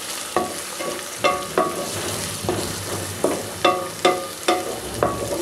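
Chopped onions and ginger-garlic paste frying in oil in a metal pot, with a steady sizzle. A plastic spatula stirs and scrapes the pot, giving repeated short knocks that ring briefly, roughly two a second.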